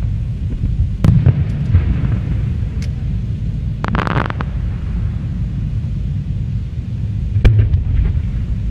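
Aerial fireworks shells bursting, with sharp bangs about a second in and a louder one near the end, a short crackling burst in the middle, and a steady low rumble underneath.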